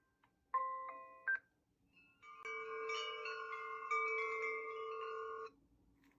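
Bell-like chime tones played by a baby white-noise machine: a few quick ringing notes, then a bright chord that is held for about three seconds and stops abruptly.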